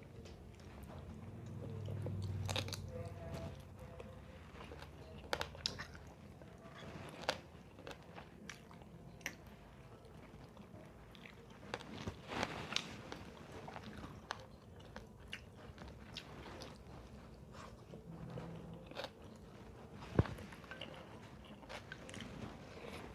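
Close-miked chewing and crunching of food, with irregular small clicks and crackles as mouthfuls are bitten and chewed, and a brief low rumble about two seconds in.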